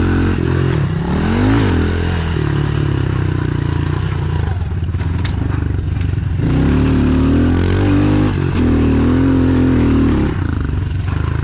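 Pit bike's small single-cylinder engine running under way, revving up and down, then held at higher revs for several seconds in the second half.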